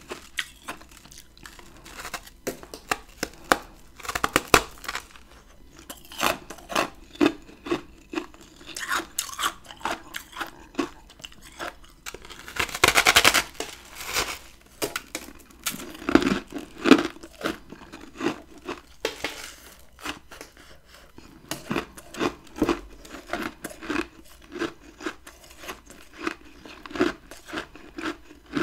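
Chunks of freezer frost being bitten and chewed close to the microphone: a run of crisp, crackly crunches, with a dense spell of rapid crunching about thirteen seconds in.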